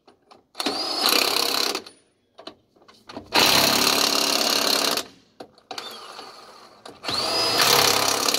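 Cordless power tool spinning lug nuts onto a trailer wheel's studs: three bursts, each starting with a quickly rising whine as the motor spins up, then running steadily for a second or two before stopping.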